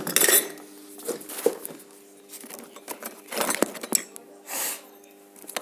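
Insulating tape pulled off the roll in short rasping strips and wrapped around thick copper wire, with a steady low hum underneath.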